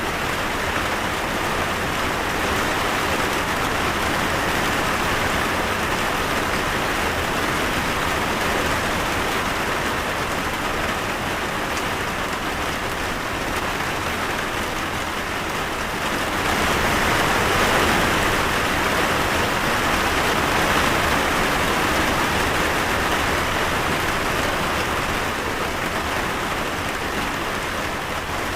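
Steady rain falling, an even hiss of drops on a surface, which grows a little heavier about two-thirds of the way through.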